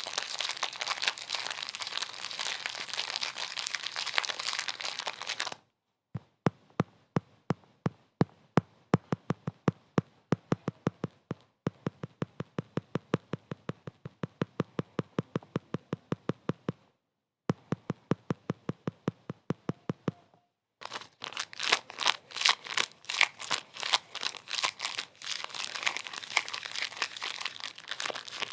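Dense crinkling and crackling. About a third of the way in it gives way to a run of sharp, evenly spaced clicks, about four a second, with a brief pause partway. Near the end the dense crackling returns.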